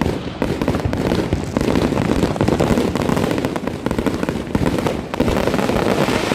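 Fireworks and firecrackers going off all around in a dense, unbroken crackle of many small bangs a second, without a pause.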